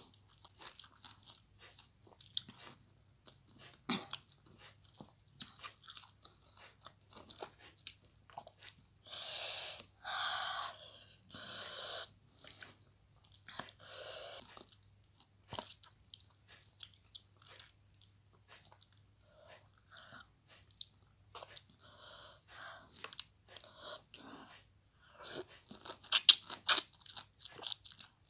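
Close-up chewing and biting of lemon slices dressed with vinegar and hot chili: many short wet clicks, smacks and crunches. About a third of the way in come a few longer breathy sounds, and near the end the chewing gets louder and denser.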